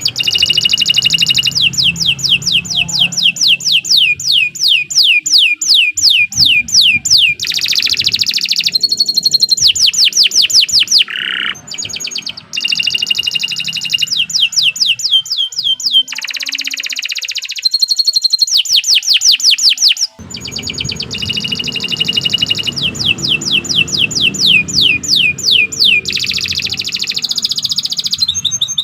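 Domestic canary singing a long, loud song of fast trills, each made of rapidly repeated chirps, with a few short breaks between phrases.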